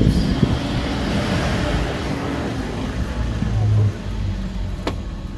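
Safari jeep engine running with a steady low hum and a hiss of noise over it, dropping a little in level about four seconds in. A single sharp click near the end.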